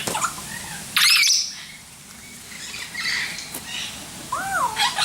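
Aviary birds calling: a loud, harsh squawk about a second in, scattered short chirps, and a wavering, whistled call that swoops up and down near the end.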